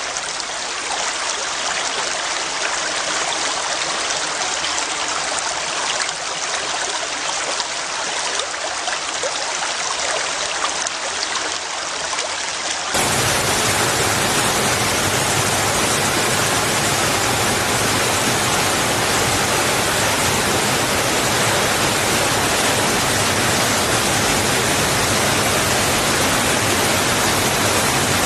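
Water running over rocks, a stream with a restless, splashy rush. About halfway through it cuts abruptly to a louder, steadier, fuller rushing sound with more low rumble.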